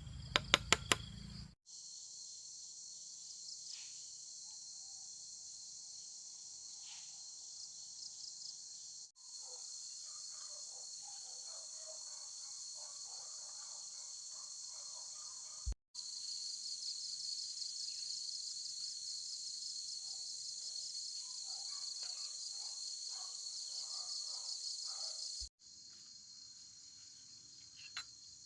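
A steady, high-pitched insect chorus of crickets chirring, broken off and restarted abruptly several times. Four sharp knocks or clinks come within the first second.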